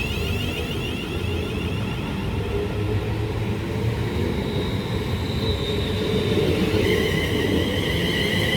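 Class 350 electric multiple unit running along the track, a steady rumble of wheels on rail with a high whine that shifts to a different pitch about seven seconds in.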